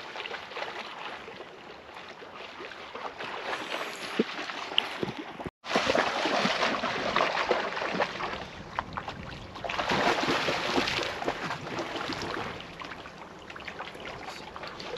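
Water splashing and sloshing as a dog swims out to retrieve a shot duck. The sound cuts out completely for a moment about five and a half seconds in.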